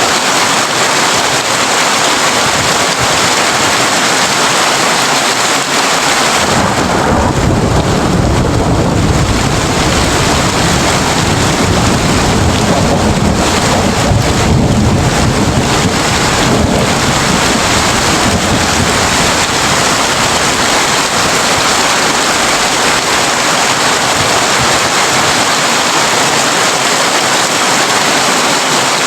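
Heavy rain drumming steadily on a tin roof. About six seconds in, a long roll of thunder rumbles in low and fades out over roughly ten seconds.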